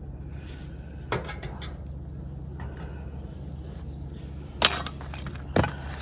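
A few sharp knocks and clatters of objects being handled, like cookware or camp gear, over a steady low hum; the loudest knock comes near the end.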